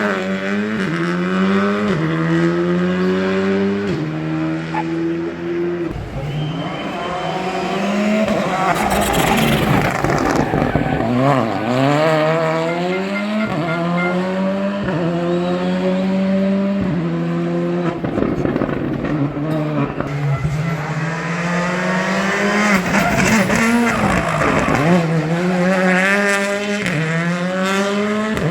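Rally car engines pulling hard through the gears, the revs climbing and dropping at each quick upshift, then falling away as the driver lifts and brakes for corners before accelerating again. Tyres squeal at times.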